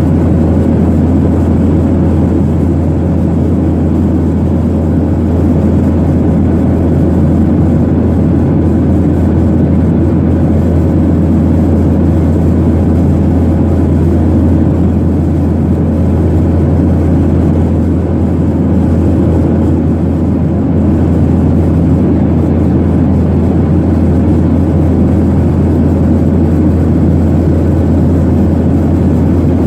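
Steady cabin noise inside a Boeing 737-800 airliner: a constant low drone from its CFM56 jet engines with a rush of air over it, not rising or falling.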